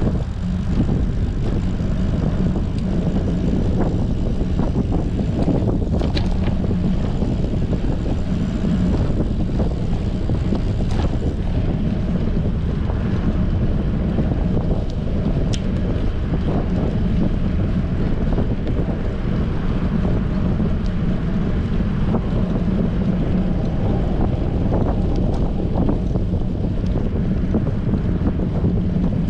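Strong wind buffeting an action camera's microphone on a moving bicycle: a steady, heavy roar with a low hum underneath and a few faint clicks.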